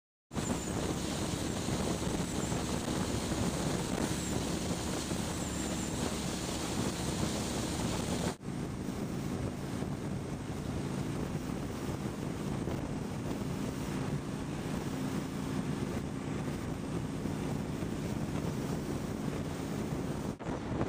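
Honda Shadow 750 V-twin with aftermarket Cobra exhaust pipes running steadily under way, under heavy wind noise on the microphone. The sound cuts in a moment after the start and breaks off briefly about eight seconds in.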